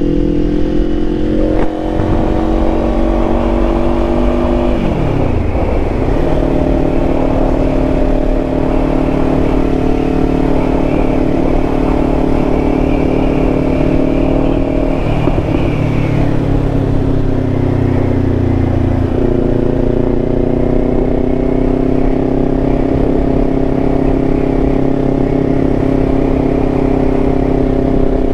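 Kawasaki Ninja 500 parallel-twin engine running under way. Its note climbs steadily and drops sharply with gear changes about five seconds in and again later, over steady road and wind rumble.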